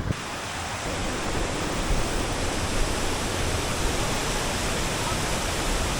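Waterfall: falling water making a steady, even rush of noise, starting and stopping abruptly.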